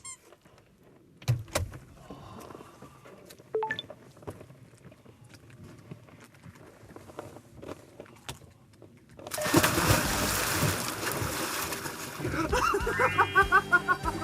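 A few faint knocks, then about nine seconds in a sudden loud rush of water splashing and churning that keeps going, as someone moves through the water.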